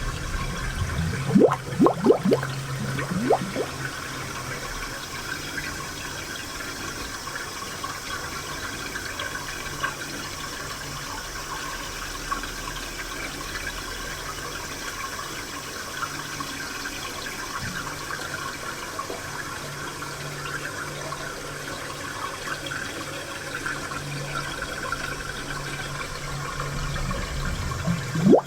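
Spring water flowing and burbling steadily, with a brief run of rising gurgles about a second in and again near the end.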